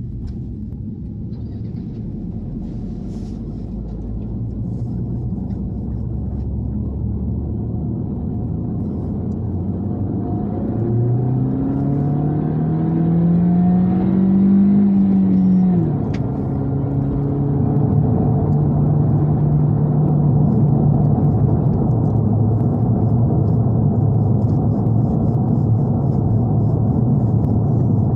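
Honda Civic hatchback's 1.5-litre turbocharged four-cylinder under full-throttle acceleration in second gear: a low drone whose pitch climbs steadily for about six seconds. It falls abruptly about sixteen seconds in, then holds steady and louder.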